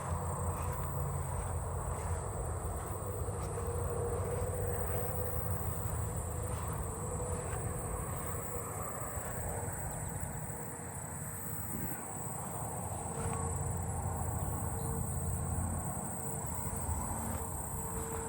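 A chorus of handsome trig crickets trilling steadily, a continuous high-pitched trill from several insects around, over a low rumble.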